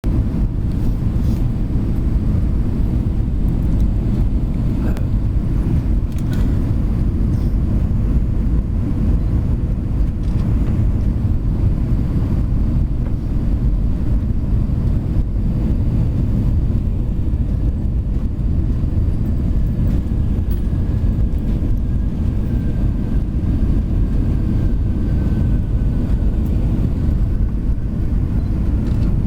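Cabin noise inside an Airbus A321 airliner: a steady low rumble of engines and airflow through the fuselage. A faint high whine slowly falls in pitch in the second half.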